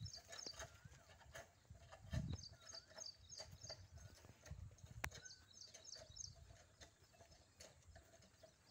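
Faint bird chirps repeating quickly, with a few short wavering whistles, over low thumps and a sharp click about five seconds in.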